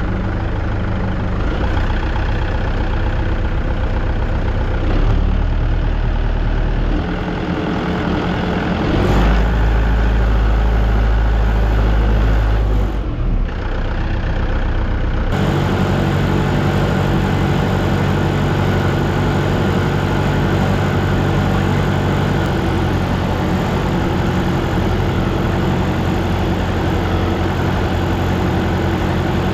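Tractor engine running, its speed changing several times before holding steady.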